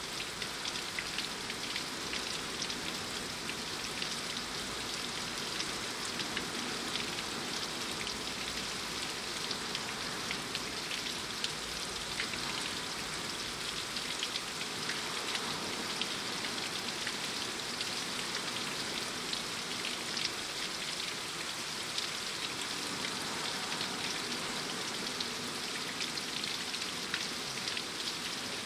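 Steady rain falling: a dense, even hiss of drops with many sharp individual drop hits ticking through it.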